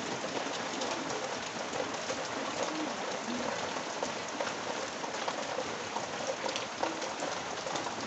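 Steady rain falling, an even hiss with drops pattering on nearby surfaces.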